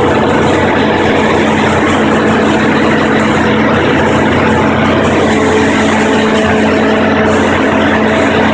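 Onan 30EK natural-gas standby generator running at a steady speed, its engine giving an even hum.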